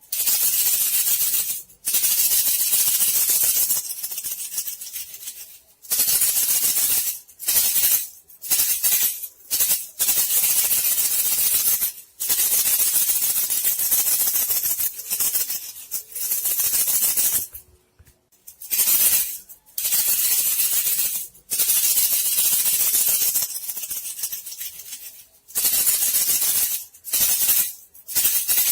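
Dry, high-pitched rattling of shaken bamboo strips, in bursts of about half a second to two seconds broken by short gaps: a lure sound for bandicoot rats.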